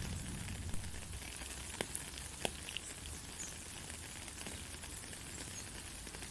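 Steady heavy rain hiss, with a few sharper drop taps in the first two and a half seconds.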